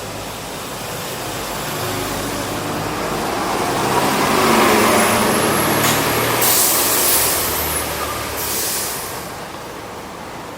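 Heavy road vehicle passing close: its engine noise swells and then fades, with two short air-brake hisses in the second half.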